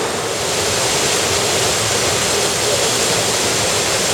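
Mountain stream rushing over rocks, a steady loud water noise.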